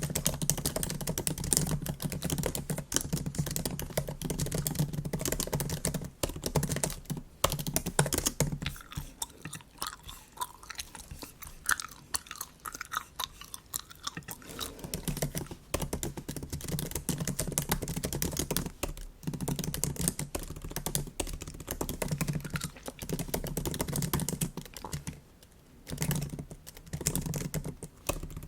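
Typing on a MacBook keyboard in quick runs of soft clicks, with bubble gum being chewed close to the microphone. The typing thins out for several seconds around the middle, where the chewing is most noticeable.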